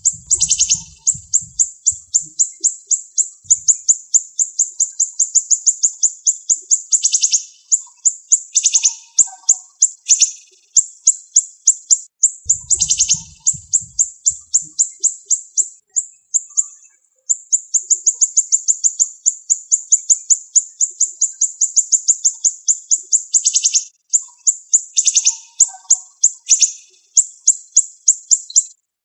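Siri-siri bird singing long, fast trills of sharp, high repeated notes in close-packed runs, broken by short pauses: the rapid-fire 'tembakan' song used for tutoring other birds.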